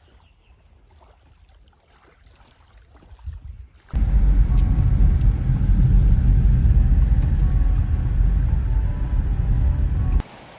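A loud low rumble starts suddenly about four seconds in and cuts off abruptly shortly before the end; before it there are only faint, quiet sounds.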